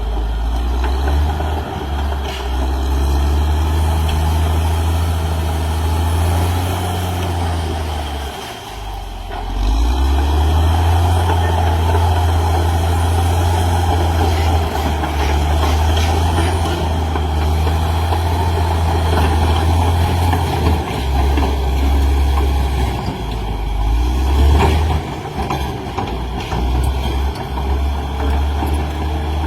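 Caterpillar D6R XL bulldozer's diesel engine running steadily under load. About eight seconds in, the engine note dips briefly, then revs back up.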